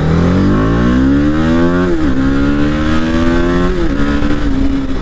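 Motorcycle engine accelerating hard, its pitch climbing, then dropping sharply with an upshift about two seconds in, climbing again, and dropping at a second upshift near four seconds before holding steady.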